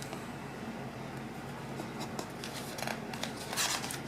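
Paper instruction sheets being handled and rustled, a few short crinkles clustered in the second half, over a faint steady hum.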